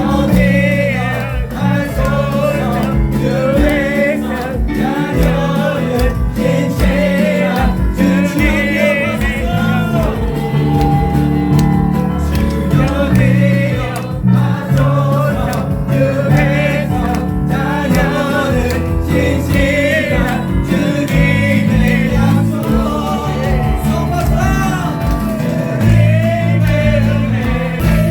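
Church praise song: voices singing with a wavering vibrato over a band with steady bass notes and drums.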